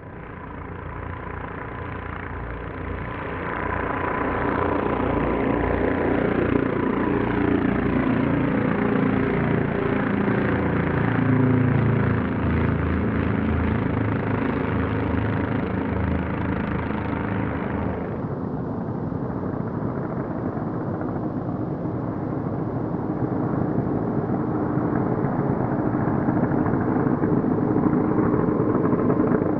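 Piston aircraft engines droning as aircraft fly past, their pitch sliding down through the first half as they go by. The top of the sound cuts off suddenly about two-thirds of the way through.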